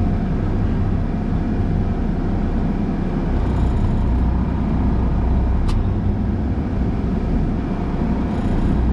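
Truck engine running steadily while it warms up, a continuous low rumble with a steady hum. A single sharp click sounds about six seconds in.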